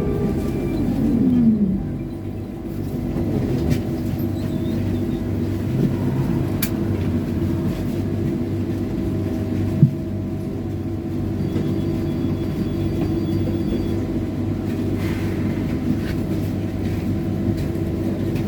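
Trolleybus running, heard from inside: an electric whine falls in pitch over the first two seconds as it slows. It then settles into a steady electrical hum over a low rumble, with one sharp click about ten seconds in.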